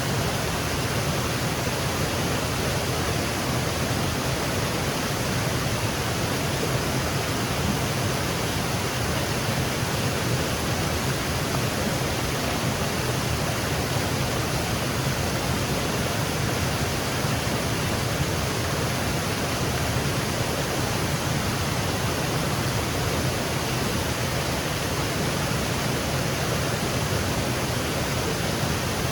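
Woodland waterfall: water cascading in a steady, unbroken rush.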